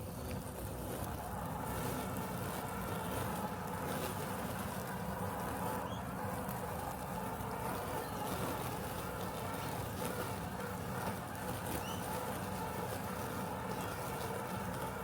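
Robotic lawn mower running with a steady mechanical hum, rising slightly in the first couple of seconds, with a few faint short chirps above it.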